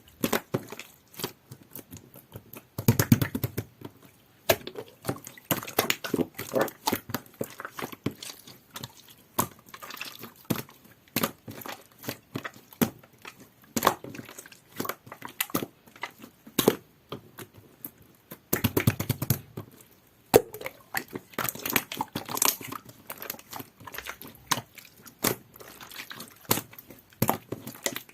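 Jelly-textured clear slime being squeezed, poked and stretched by hand, giving a run of sticky clicks and small pops. Two thicker squelching spells come about three seconds in and again around two-thirds of the way through.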